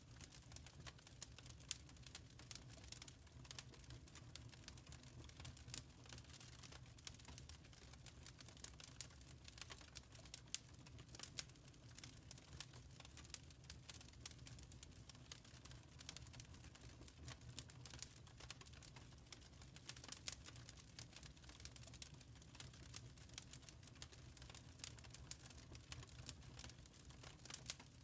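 Faint wood fire crackling in a fireplace: quick irregular pops and snaps over a low steady rumble.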